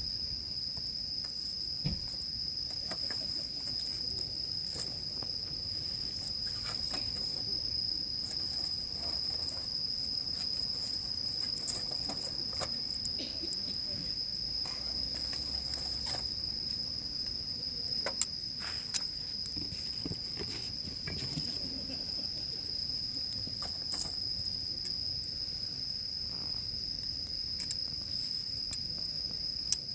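Insects trilling in a steady high-pitched drone, with a wood campfire crackling over it in scattered pops and snaps. Two or three sharper pops stand out about two-thirds of the way through.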